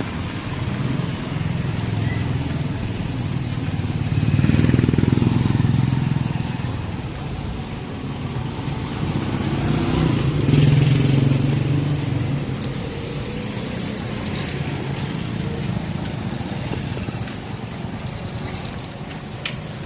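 Motor vehicles passing on a rain-soaked street, their engines and tyres rising and fading, loudest twice: about four seconds in and again about ten seconds in, over a steady wash of street noise.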